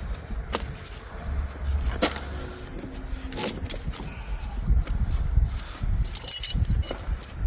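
Steel tire-chain links clinking and jangling as a snow chain is handled onto a loader's rear tire: a few single sharp clinks in the first few seconds, then a brief rattle of links a little after six seconds, over a low rumble.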